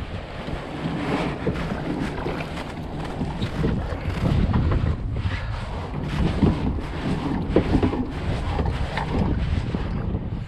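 Wind buffeting the microphone, with irregular knocks and scrapes of a kayak being worked off the bank into the water.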